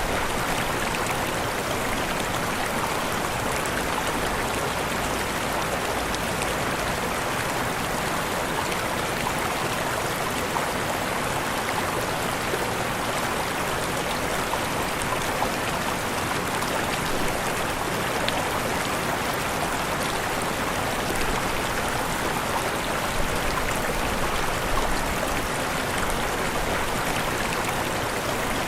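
Waterfall: falling water rushing in a steady, even noise.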